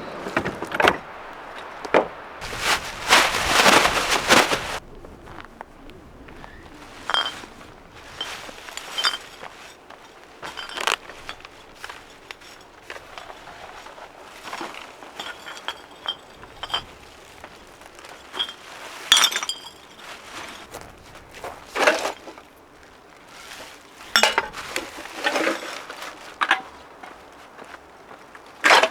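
Empty beer cans and glass containers clinking and knocking together as litter is picked up and dropped into a garbage bag, in irregular bursts. A plastic bag rustles for a couple of seconds near the start.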